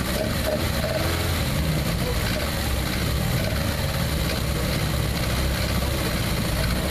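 Honda B-series four-cylinder engine on individual throttle bodies idling steadily.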